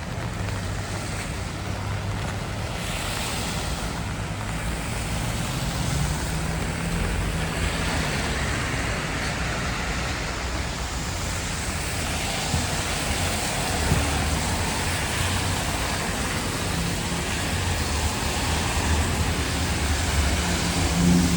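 Rainy city street ambience: road traffic passing on wet pavement, a steady hiss of tyres and spray over the low hum of vehicle engines.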